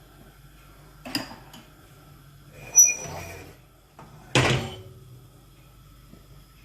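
A round metal spoon and a nonstick frying pan being handled while pancake batter is ladled and spread: a light knock about a second in, a metallic clink that rings briefly near three seconds, then a louder scraping clatter about four and a half seconds in.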